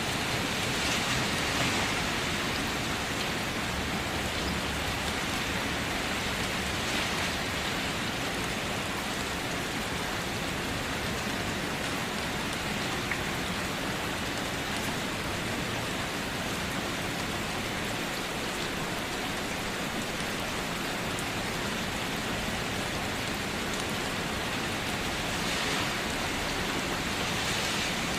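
Steady rain falling, an even hiss of many drops hitting surfaces, swelling slightly about a second in and again near the end.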